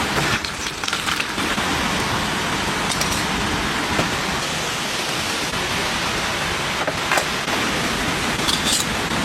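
Steady rain falling, an even hiss with a few louder drops ticking now and then.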